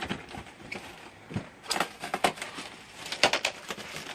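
Parts and packaging of a model airplane kit being handled: a string of sharp clicks and rustles, busiest about two seconds in and again about three seconds in.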